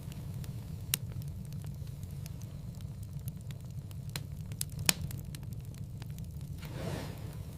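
Wood fire crackling in a fireplace: a steady low rumble of the flames with scattered sharp pops, the loudest about five seconds in, and a soft rushing swell of the flames near the end.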